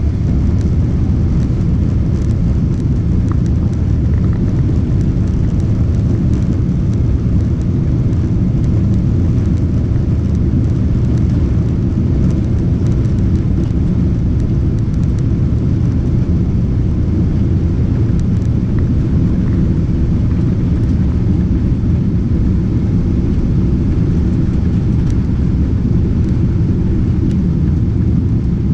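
Boeing 777-300ER on its takeoff, heard from inside the cabin: a loud, steady, deep rumble of its GE90 engines at takeoff thrust, mixed with runway and airflow noise.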